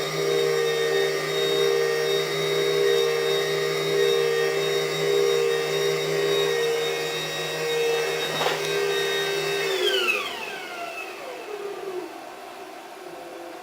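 Electric drive motor of a homemade milling machine running at a steady speed with a whine. About ten seconds in it is switched off, and its pitch falls as it winds down to a stop.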